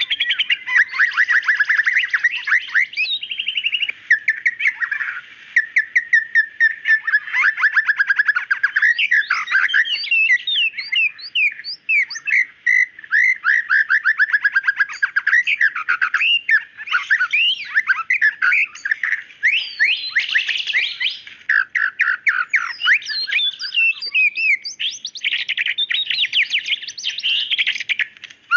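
White-rumped shama in full song: a long, unbroken stream of fast, varied phrases, rapid trills and quick rising and falling whistles.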